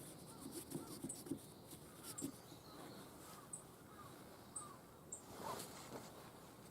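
Faint bird calls: a string of short arching notes repeated every half second to a second, with a few light knocks in the first second and a half.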